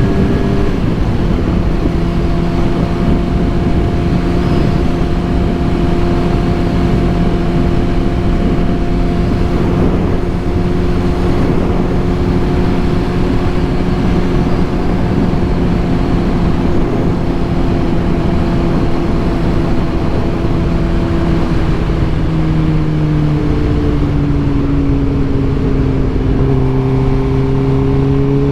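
Suzuki GSX-R 750's inline-four engine running steadily through an M4 full exhaust. Its pitch drops slightly about 22 seconds in.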